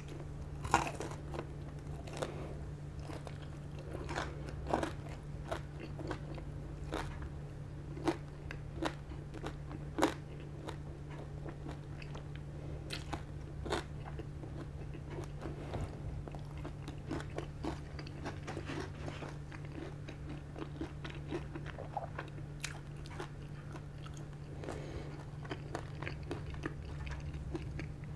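Close-up chewing of crispy deep-fried pork belly (lechon kawali), the crackling skin crunching between the teeth. There are several sharp, loud crunches in the first ten seconds, then a softer run of smaller crunches, over a steady low hum.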